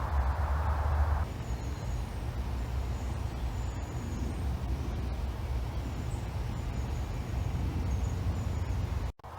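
Steady low outdoor rumble with faint, thin, high calls of small birds dotted through it. A rustling hiss in the first second stops abruptly, and the sound cuts out for a moment near the end.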